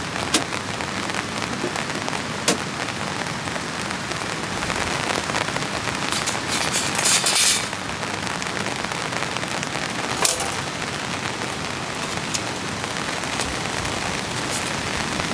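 Steady heavy rain falling on a tent, with a few sharp knocks and a brief louder burst of noise about seven seconds in.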